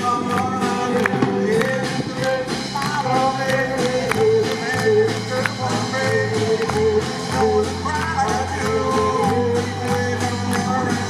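Live rock band playing, with a drum beat of regular strokes under bass notes and a lead melody line.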